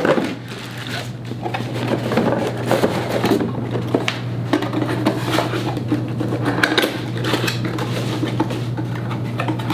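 Metal parts of a dual monitor mount kit being handled, clinking and knocking irregularly against each other and the desk, over a steady low hum.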